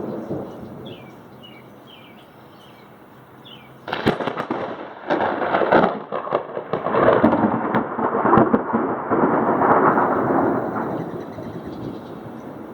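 Thunder from a close cloud-to-ground lightning strike: a sharp crack about four seconds in, then a crackling, rolling rumble that builds for several seconds and fades away near the end. The last of an earlier rumble dies away in the first second.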